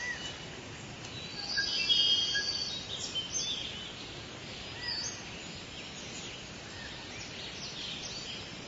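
Wild forest birds singing and calling over a steady background hiss, with short chirps and whistles throughout and one louder song phrase about two seconds in.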